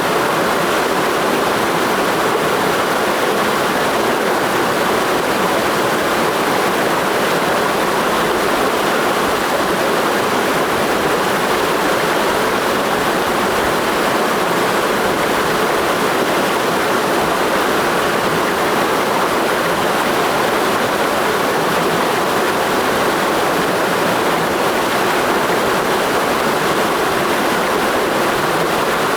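Mountain stream flowing in a gorge: a steady, unbroken rush of water.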